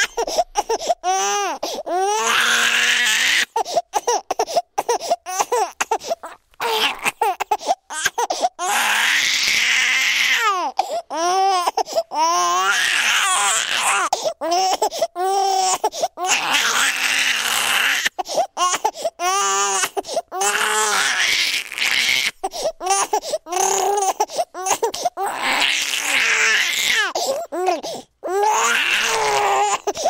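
Newborn baby crying: loud, wavering wails one to two seconds long, one after another with short breaks for breath between them.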